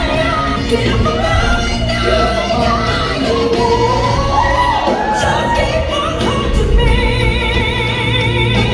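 Singing with musical accompaniment, a vocal line over a steady bass, ending on a long held note sung with vibrato.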